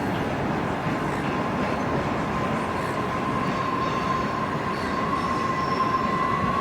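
A train running past with a steady rumble; about a second in, a thin high wheel squeal comes in and grows stronger toward the end.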